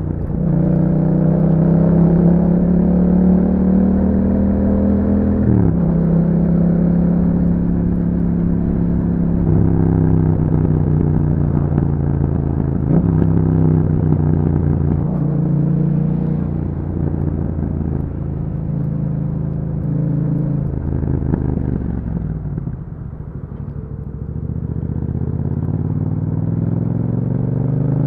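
2021 Yamaha MT-07's parallel-twin engine running through an Akrapovic exhaust while riding: it pulls up through the revs with a drop in pitch at each of several upshifts, eases off and slows about three quarters of the way in, then accelerates again near the end.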